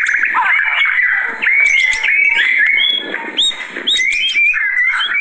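White-rumped shama (murai batu) singing a fast, unbroken song of varied whistles, chirps and quick rising and falling notes, the excited, worked-up singing of a fired-up bird.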